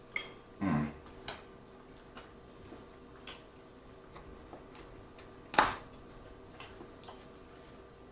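Close-miked eating sounds: scattered wet mouth clicks and smacks while chewing spaghetti, with a brief low hum that falls in pitch just under a second in. A single sharp knock about five and a half seconds in is the loudest sound.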